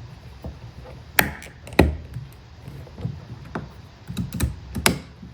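A series of sharp plastic clicks and knocks as a cover on a car's door handle is pushed and slid into place, the two loudest about a second and just under two seconds in, then several more near the end.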